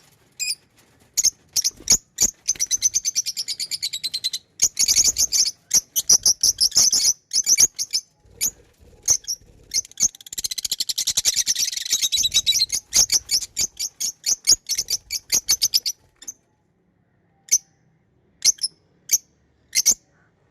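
Pet lovebirds chirping: quick, high-pitched chirps with two longer runs of fast chatter, thinning to a few scattered single chirps near the end.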